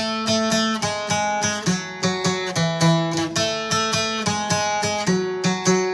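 Acoustic guitar picking a descending scale, A, G sharp, F sharp and E, with three quick picked strokes on each note.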